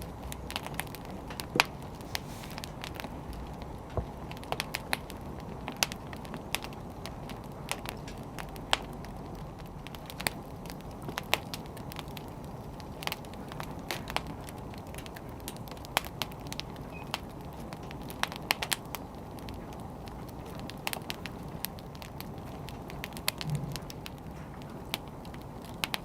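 Wood fire burning: irregular sharp crackles and pops from the burning logs, a few a second, over a steady low rush of the flames.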